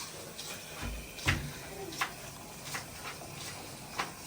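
A few light, irregular clicks and knocks, spaced unevenly over a low background hum.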